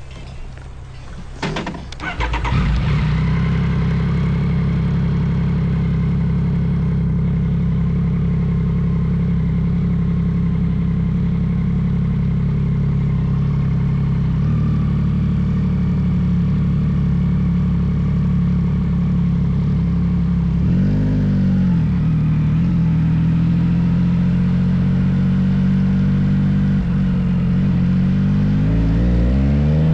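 Yamaha XSR900's inline three-cylinder engine through an M4 full aftermarket exhaust, catching and starting about two seconds in, then idling steadily. There is a brief dip and rise in engine speed about two-thirds through, and the revs climb near the end.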